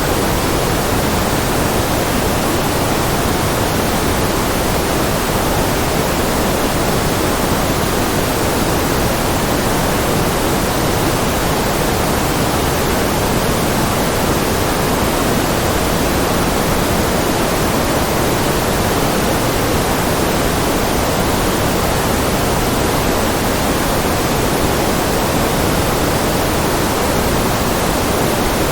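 Steady, unchanging synthetic white-noise track: an even hiss with a somewhat fuller lower-middle, no events or variation.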